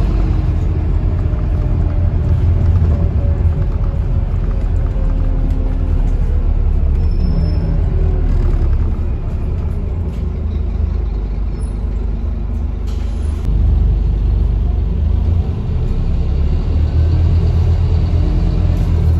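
Scania-chassis Alexander Dennis Enviro 400 double-decker bus rumbling steadily while under way, heard from on board. A drivetrain whine slowly falls in pitch over the first several seconds, and a short hiss comes about thirteen seconds in.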